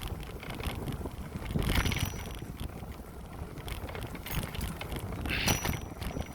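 Wind rushing over the microphone and road noise from a bicycle being ridden, swelling louder about two seconds in and again near the end.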